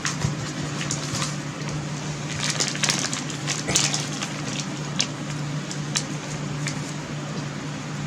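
Crinkling plastic packaging and small clicking parts being handled during unpacking, with a cluster of crackles midway and a few single clicks after, over a steady low hum.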